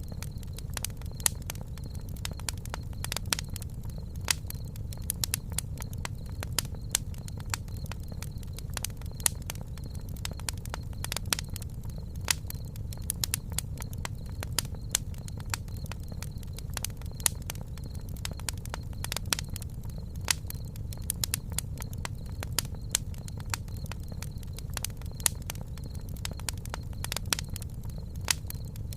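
Campfire burning, with frequent sharp crackles and pops, several a second, over a low steady rumble of the flames.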